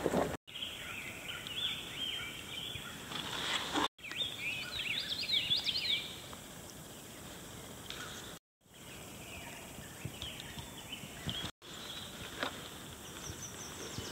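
Songbirds singing quick chirping and warbling phrases over a steady outdoor hiss. The sound cuts out briefly four times where clips are joined.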